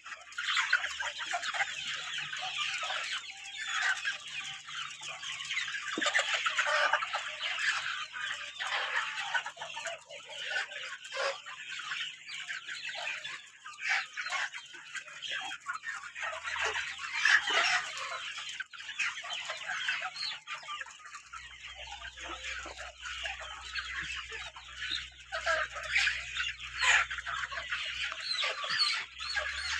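A flock of Kadaknath chickens clucking and calling, many birds overlapping at once.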